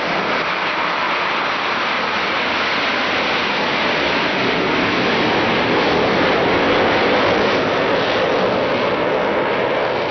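De Havilland Sea Vixen's twin Rolls-Royce Avon turbojets: a steady jet roar that swells slightly around the middle and eases near the end.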